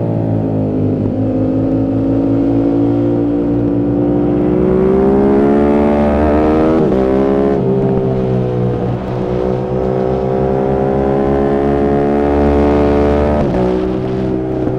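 Yamaha YZF-R7's 689 cc parallel-twin engine breathing through an aftermarket M4 exhaust, ridden hard on track. The engine note climbs steadily for several seconds, breaks sharply at a shift about halfway through, falls, then climbs again before another abrupt break near the end.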